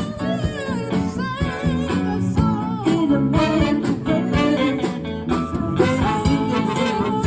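A band playing a song: a singing voice, wavering and held on long notes, over guitar accompaniment.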